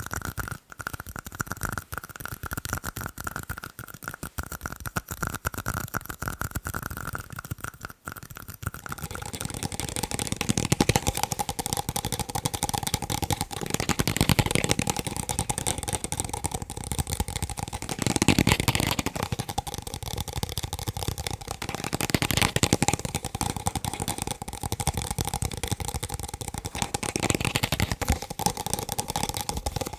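Rapid fast tapping on plastic cups: a dense stream of light taps, each with a short ring from the cup. About nine seconds in, the ring drops to a lower pitch.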